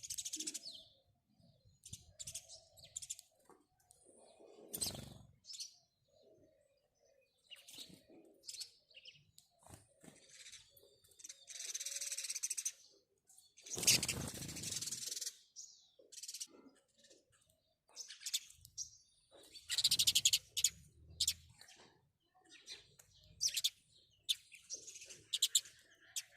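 House sparrows chirping: many short, high chirps in irregular runs, with a few denser, louder bouts of chirping.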